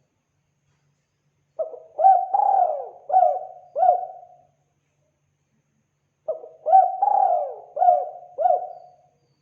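Spotted dove (tekukur) cooing: two phrases of about five coos each, a couple of seconds apart, the third coo in each phrase the longest.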